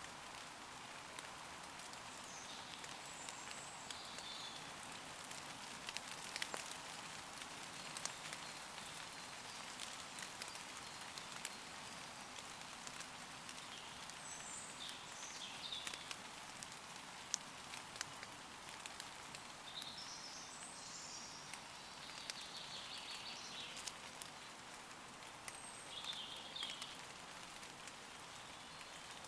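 Gentle rain falling steadily on forest leaves, with many single drops ticking. A few short phrases of distant, high-pitched birdsong come through the rain now and then.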